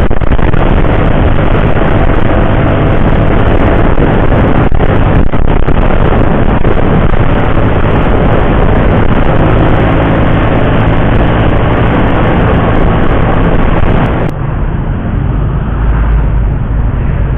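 Motorcycle on the road: a steady loud rush of wind noise over a low engine hum, turning suddenly quieter about fourteen seconds in.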